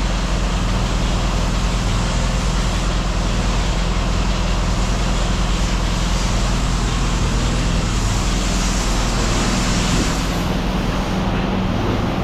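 A vehicle engine running steadily at idle, a constant low hum under an even noise.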